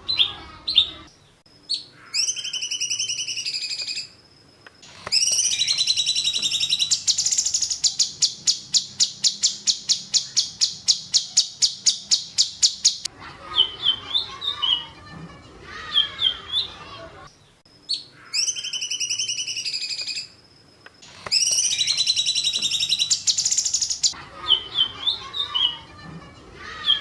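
Songbird song of the kind played as masteran, training audio for caged birds. It has high whistled phrases and a long, fast, even trill of about eight notes a second, and similar phrases come round again later.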